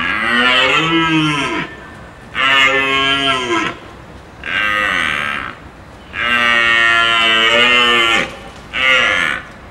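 Five long, loud calls from a farm animal, each falling in pitch at its end.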